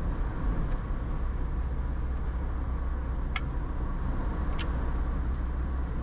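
Steady low road and engine rumble inside a car driving at road speed, with two short sharp ticks a little over a second apart near the middle.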